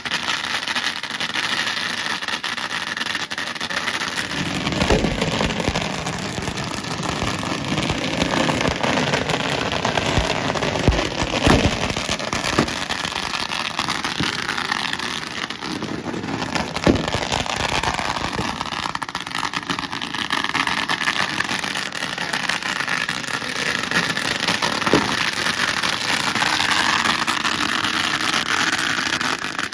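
Thousands of firecrackers going off together in a dense, continuous crackle with sharper cracks through it. It grows heavier and deeper from about five seconds in.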